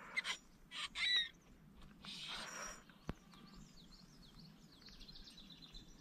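Birds calling outdoors: a chirp among a couple of brief noisy sounds in the first second or so, then a rapid series of short falling chirps in the middle, over faint outdoor noise. A single sharp click comes about three seconds in.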